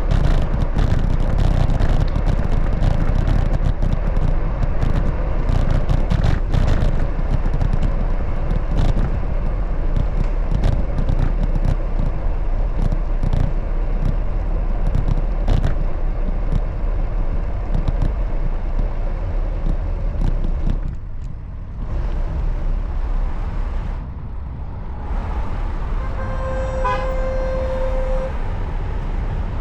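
Wind rumble on the microphone and road noise from a moving bicycle, with frequent small clicks and rattles. Near the end a vehicle horn sounds one steady note for about two seconds.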